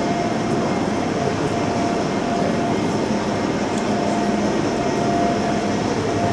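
Steady hum of a standing MÁV-START passenger train at the platform: a constant mid-pitched tone over an even rushing noise.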